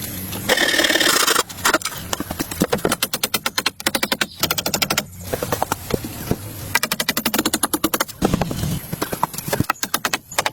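Rapid runs of sharp knocks or taps, several to about ten a second, broken by short pauses, with a brief stretch of scraping noise about half a second in.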